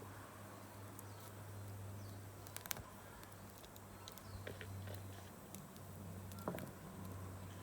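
Wood campfire burning with sparse small crackles and two sharper pops, one a little before the middle and one near the end, over a low steady hum.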